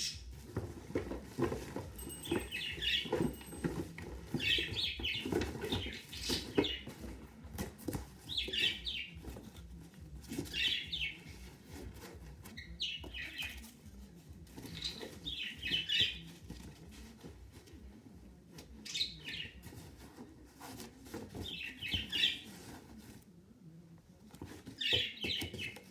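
A pet bird chirping in short bursts every second or two, over low rustling and knocking from packaging being handled.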